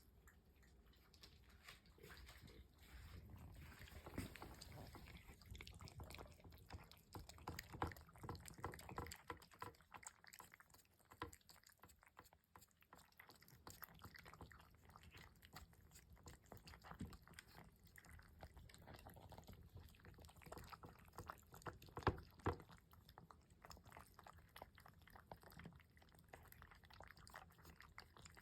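Cats eating breakfast from their bowls: faint, irregular small clicks and crunches throughout, with one sharper knock about 22 seconds in.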